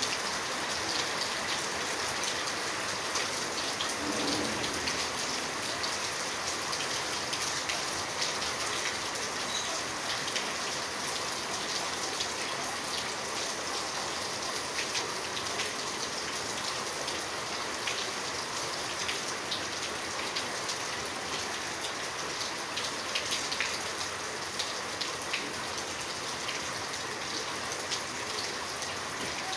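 Rain falling steadily, with many separate drop hits heard through the constant hiss.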